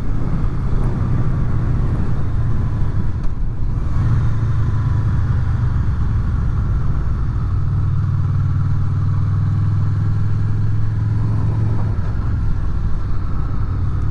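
Honda VFR800's V4 engine running steadily while the motorcycle is ridden along, its low note shifting slightly in pitch, over steady wind and road noise on helmet microphones.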